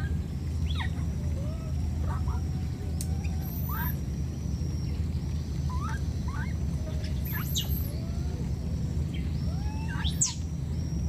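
Birds chirping: scattered short, high calls, some rising and some falling, over a steady low rumble.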